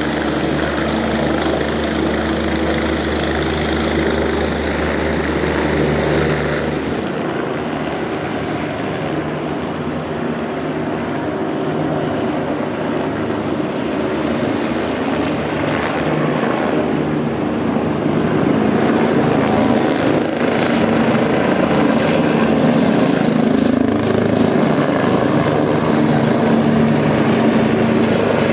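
Air-ambulance helicopter running steadily with a continuous rotor and engine drone, growing a little louder past the middle.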